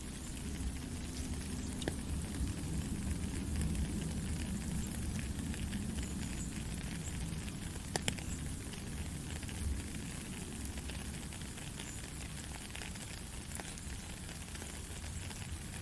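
Heavy rain falling steadily as a dense hiss, with a few sharp drop clicks and a low rumble underneath, strongest in the first half.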